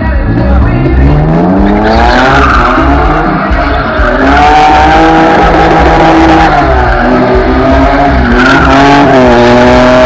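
BMW E30 engine revving up over the first couple of seconds, then held at high revs with small rises and falls while the tyres squeal and skid as the car drifts.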